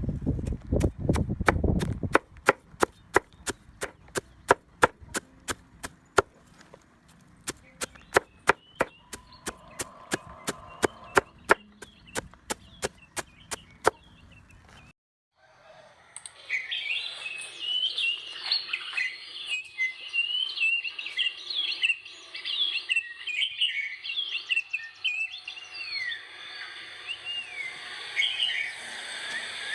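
Sharp, evenly spaced knocks, about three a second, for the first half. After a brief silence, many small birds chirp busily with quick rising and falling notes.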